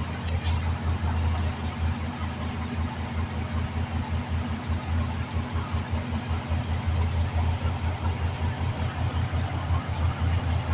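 Ford Thunderbird engine idling steadily with a low, evenly pulsing rumble. A brief click comes just after the start.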